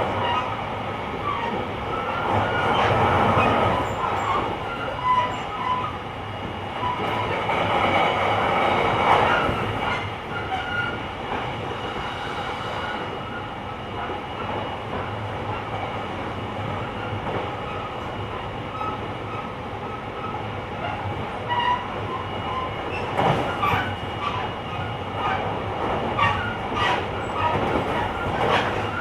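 JR Kyushu Series 885 electric express train (Hitachi-equipped motor car) running along the line, heard inside the car: a steady noisy rumble with several steady motor tones over it. Near the end come a few sharp clicks of the wheels over rail joints.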